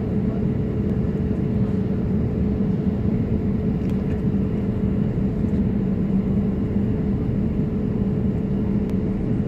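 Steady cabin noise of a Boeing 787-8 in flight: a constant rush of airflow and engine drone with a low hum and a faint steady tone above it.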